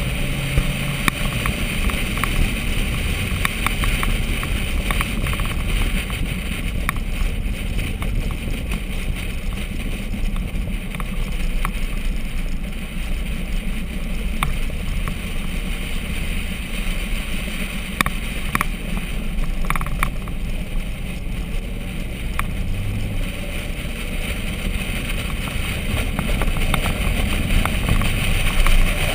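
Corvette V8 engine running at parade-lap pace, its pitch stepping up and down a few times, under steady wind and tyre noise.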